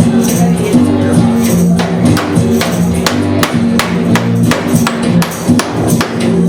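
Live band music: sustained low pitched notes under a steady beat of sharp percussion strokes, several a second.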